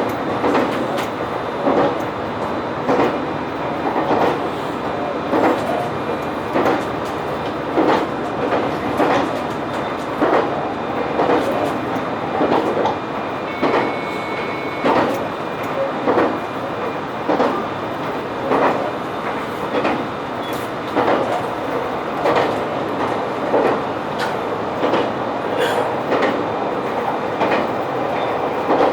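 Diesel railcar running along the line, its wheels clicking over rail joints in an even clickety-clack about once a second over a steady running noise.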